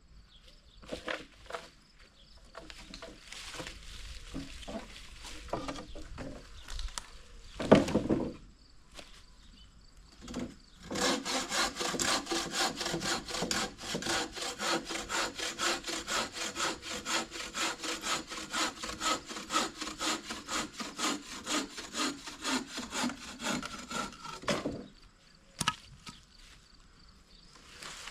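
Hand saw cutting through wood from a fallen tree: a few uneven strokes and a sharp knock about eight seconds in, then steady back-and-forth sawing at about three strokes a second for some fourteen seconds before it stops.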